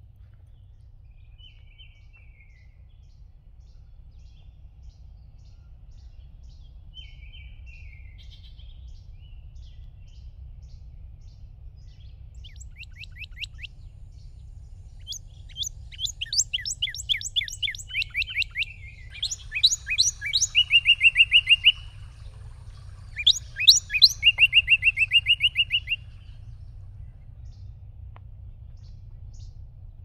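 Songbirds singing: a few faint high calls early on, then from about halfway a loud, rapid trill of quickly repeated sweeping notes, given in two bouts that stop a few seconds before the end.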